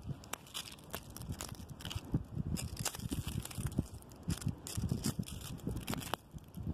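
Strong wind gusting through tree branches, with irregular rustling and crackling, and gusts buffeting the microphone as low, uneven thuds.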